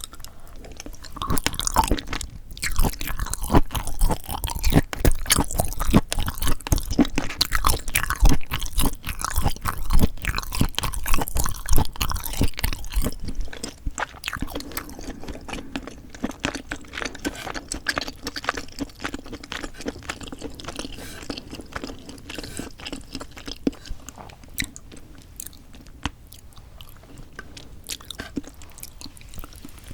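Close-miked chewing of a meal of bibim-myeon noodles and sea snails, wet and crunchy bites in quick succession. The chewing is dense and loud for the first half, then softer and sparser from about halfway.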